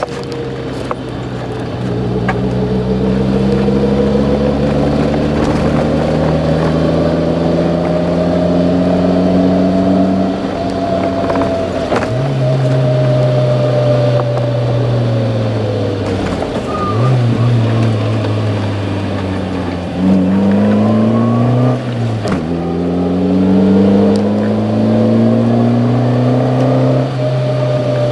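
Subaru Pleo's 660 cc four-cylinder engine running through a homemade all-stainless-steel muffler. The engine pitch climbs slowly and falls back, with several sudden drops and recoveries in the second half.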